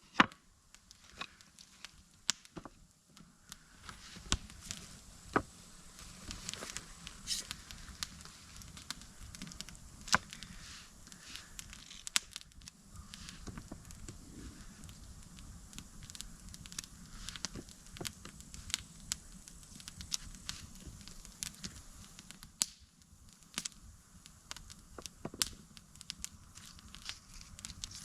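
Wood fire crackling, with sharp irregular snaps and pops over a soft hiss.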